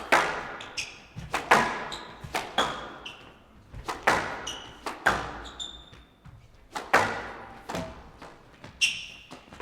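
A squash rally: the ball is struck hard by rackets and smacks off the court walls about once every half second to second, each hit echoing in the glass court. Shoes squeak sharply on the wooden floor between shots.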